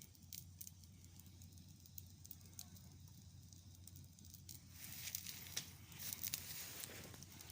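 Wood bonfire burning, with faint crackles and pops over a soft hiss; the crackling grows denser and louder about five seconds in.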